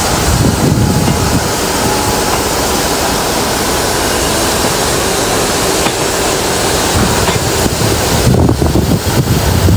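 A train running past close by: a loud, steady rumble and rush of noise, with wind buffeting the microphone.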